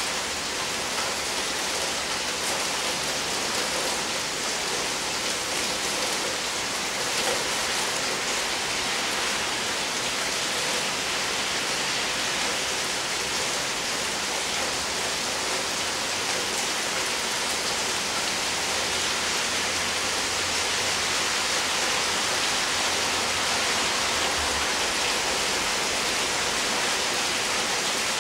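Steady rain falling on roofs, leaves and grass, an even hiss that holds at one level throughout.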